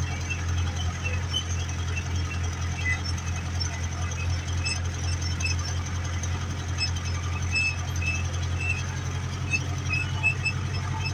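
Ursus 385 tractor's diesel engine running steadily under ploughing load, a constant low hum, with faint short high chirps scattered through it.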